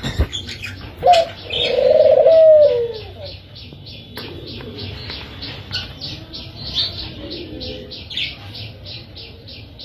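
Captive doves cooing: one long, loud coo about a second in, over a fast, even series of short high chirps, about five a second.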